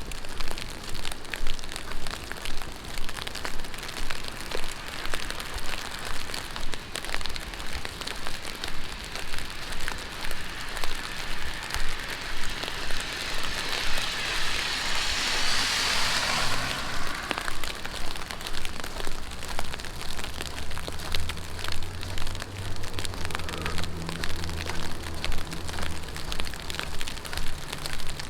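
Heavy rain falling on a city street, with steady footsteps about once a second. Around the middle, a vehicle's tyres hiss past on the wet road, swelling and cutting off; later a low engine hum sits under the rain for several seconds.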